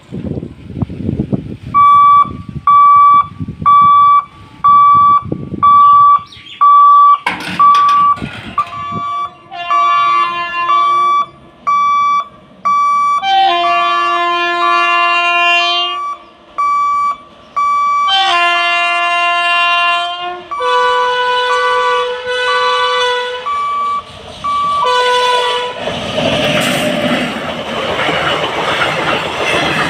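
Level crossing warning beeping about twice a second, then an approaching electric locomotive sounding its multi-tone horn in several blasts, two of them long. From about 26 s a passenger train runs past, its coaches rumbling and clattering over the rails.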